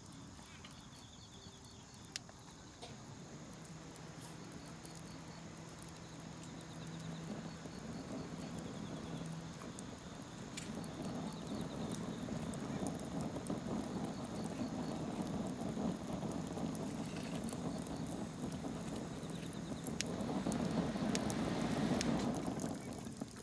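Firewood burning in a fire pit, with scattered sharp crackles and pops, and crickets chirping. A rushing noise slowly swells, loudest about three-quarters of the way through, then falls away near the end.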